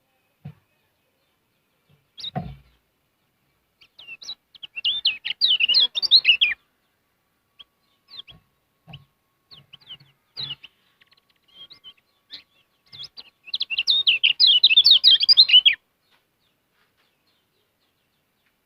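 Kecial kuning white-eye singing two fast, twittering bursts of high chirps, with scattered single chirps between them. There is a single low thump early on.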